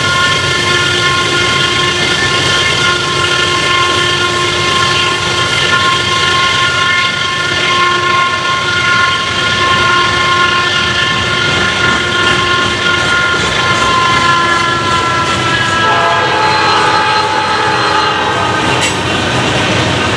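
GE Dash 9 freight locomotive passing under power with a loud, steady vacuum-cleaner-like whine over the rumble of the train. The whine drops in pitch about sixteen seconds in as the locomotive goes by.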